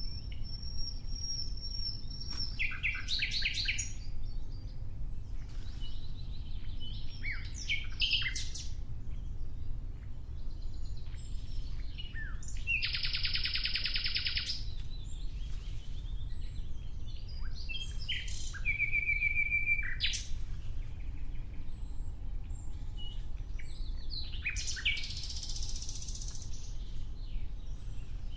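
Nightingale singing a string of varied phrases with short pauses between them: a long held whistle at the start, quick trills, a loud rattling burst about halfway through, and a high buzzy phrase near the end. A steady low rumble runs underneath.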